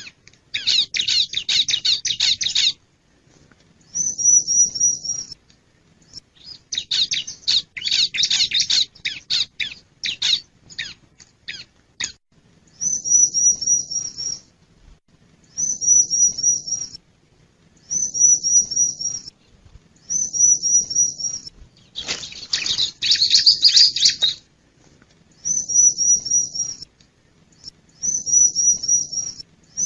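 Bar-winged prinia (ciblek) singing loudly: short phrases of rapid, high, repeated notes come about every two seconds. Three times, at the start, around a quarter of the way in and about three quarters through, these give way to longer bursts of dense, scratchy chattering.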